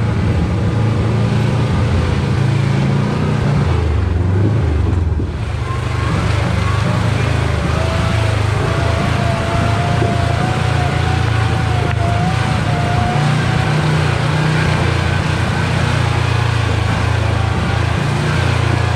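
Side-by-side UTV's engine running under load as it crawls a rough, rocky trail. The engine eases off briefly about five seconds in, and a faint wavering whine is heard in the middle stretch.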